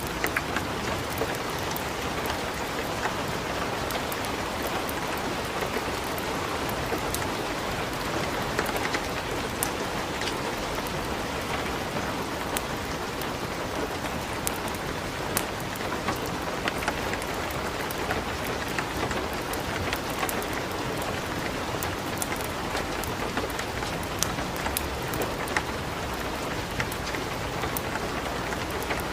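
Steady light rain mixed with the crackle of burning wood in a fireplace: a constant hiss of rain, broken all through by many small, sharp pops.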